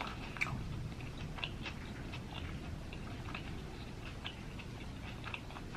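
A person chewing food with mouth closed, with soft wet mouth clicks and smacks scattered every second or so, and licking sauce from their fingers.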